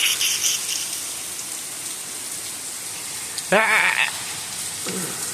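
Steady rain with water pouring and splashing out of a badly fixed rain gutter. A short vocal sound breaks in about three and a half seconds in.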